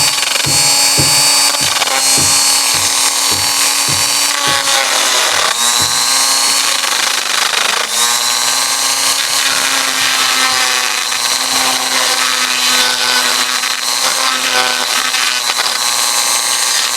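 Electric power tool motor running steadily, its pitch sagging briefly about five and eight seconds in as it takes load, with a run of regular clicks during the first few seconds.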